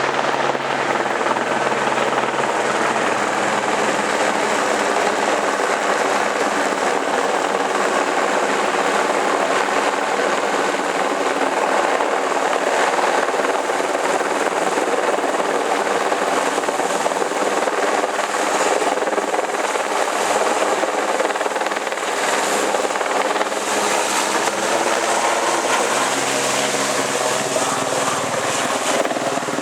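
Helicopter running close by, a loud, steady rotor and engine sound with an even hum of stacked tones; the higher hiss swells a little about two-thirds of the way in.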